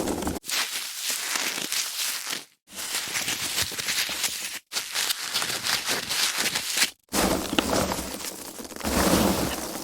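Foam packaging being handled: dense crackling and rubbing of the foam, in short takes of about two seconds, each cut off by a brief silent gap.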